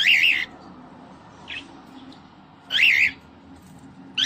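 Cockatiel calling: loud, wavering calls of about half a second each, one at the start, one about three seconds in and a third beginning at the very end, with a faint short chirp between the first two.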